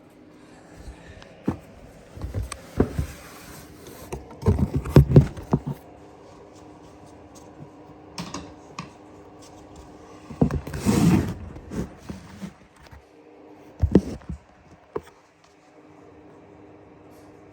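Handling noises at a snake enclosure: scattered knocks and clicks, a cluster of knocks about five seconds in, and a louder rustling scrape around eleven seconds in, over a faint steady hum.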